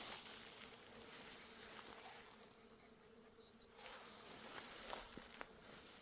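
Faint, steady buzzing of bees, with a couple of light ticks near the end.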